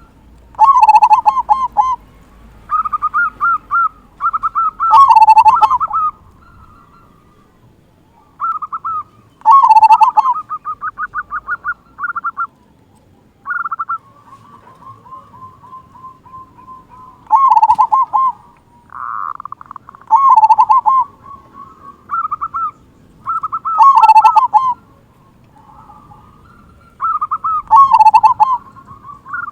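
Zebra dove (perkutut) cooing: repeated phrases of quick staccato notes, each ending in a loud, full 'kung' note, coming every few seconds. The bird is in full, active song.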